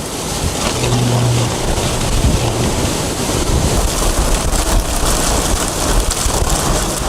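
Strong storm wind blowing hard across the microphone with rain: a loud, steady rushing noise. A brief low hum comes in about a second in.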